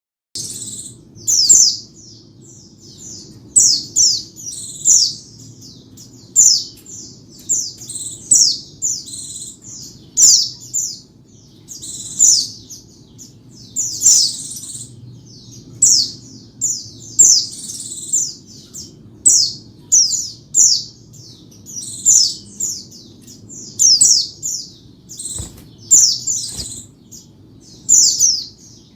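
White-eye (pleci) singing: short bursts of high, quick chirps repeated about once a second, over a faint low hum.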